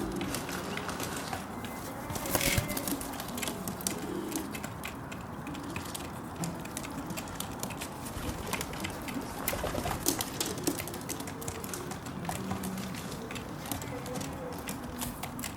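Feral pigeon cooing in low, rolling phrases, with frequent sharp taps from a pigeon pecking sunflower seeds on the window sill.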